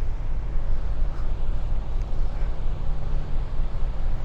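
Wind buffeting the microphone on the open deck of a cruise ship under way: a steady low rumble with an even hiss above it, rising and falling in gusts.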